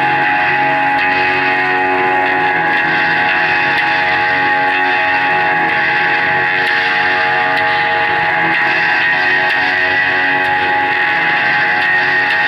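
Live band playing loud guitar music: a dense, steady wash of long held notes with no breaks.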